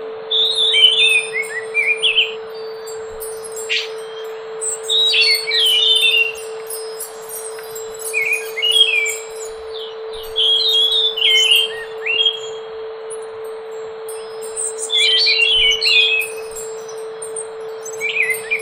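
Scaly thrush (anis macan) singing: short phrases of quick whistled notes, repeated about every two to three seconds, over a steady low hum.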